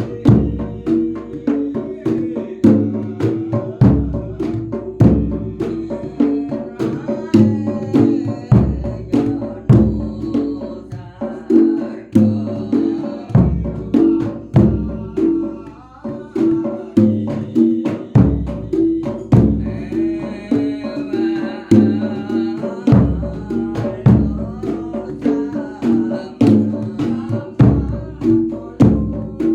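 Javanese folk percussion ensemble playing. The jedor, a large bass drum, is struck about once a second under hand drums and pitched percussion playing a repeating figure. A wavering melodic line joins briefly about twenty seconds in.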